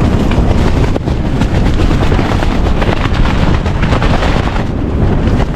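Strong gale blowing across the microphone: a loud, steady low rumble with gusting buffets.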